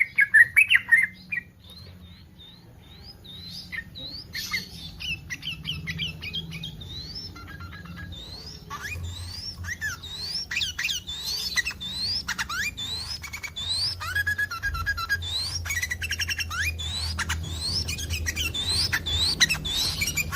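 Sooty-headed bulbul (trucukan) song in breeding condition: a quick chatter in the first second or so, then a long run of short rising whistled notes, repeated and overlapping, over a low hum.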